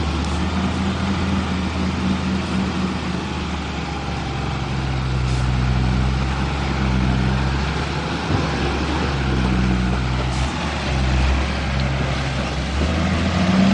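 A heavy vehicle's engine running steadily under load, its low hum shifting in pitch a few times and rising near the end.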